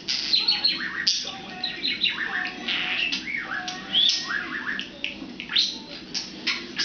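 Pet budgerigar chattering and warbling: a quick, unbroken run of short chirps and sweeping whistles.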